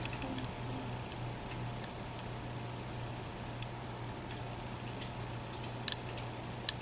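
Lock picks working inside an EVVA ICS dimple lock, making scattered sharp little clicks and ticks, the loudest a couple near six seconds in, as a bound slider is manipulated, over a faint steady low hum.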